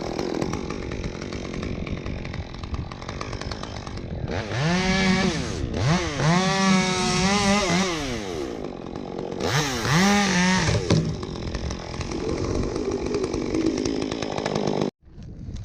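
Two-stroke chainsaw running, revving up to full speed in three bursts about a second or two apart and dropping back to a lower speed between them. The sound cuts off abruptly near the end.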